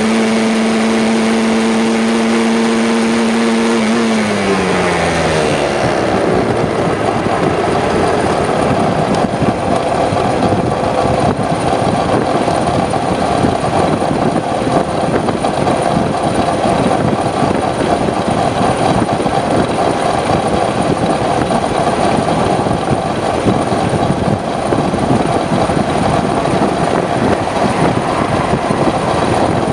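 Aprilia RS125 two-stroke single engine holding a steady note, then falling in pitch and dying away about four to five seconds in as the engine is killed. A steady rushing noise carries on after it.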